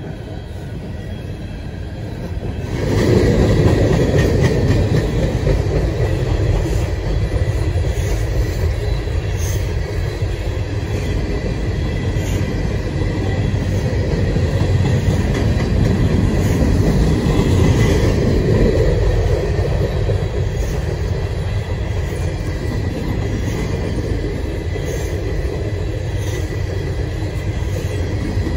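A train passing close by: steady wheel-on-rail noise that swells about three seconds in as the train reaches the microphone, then holds, with a thin high whine over it.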